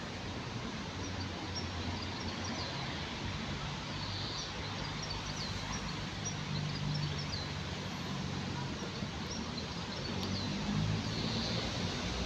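Steady low rumble of distant traffic with short, faint, high bird chirps scattered throughout.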